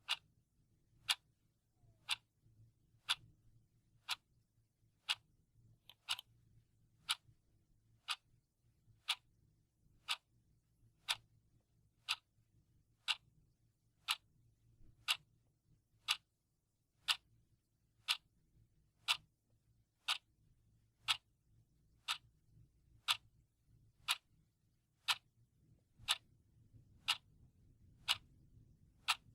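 Clock ticking sound effect: a steady run of sharp, evenly spaced ticks.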